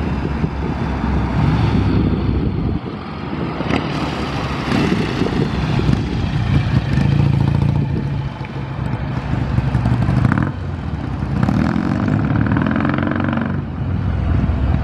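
Vehicle engines running close by, one after another, with the engine note rising and falling as they move.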